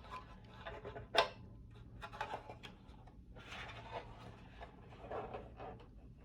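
Hands handling and fitting together the plastic parts of an ultrasonic cool-mist humidifier: scattered rubbing and scraping, with a sharp click about a second in.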